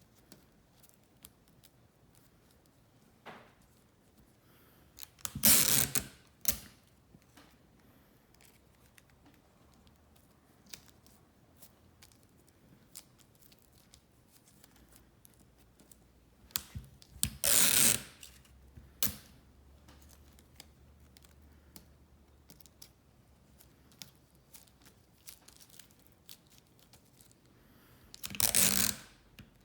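Three short rustling, scraping noises about twelve seconds apart, with faint small clicks between them: hands and small tools handling a cherry blossom as it is taken apart.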